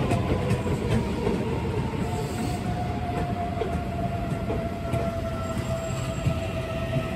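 Keihan 9000 series electric train pulling into a station: its wheels rumble on the rails under a steady electric whine that slowly falls in pitch as the train brakes.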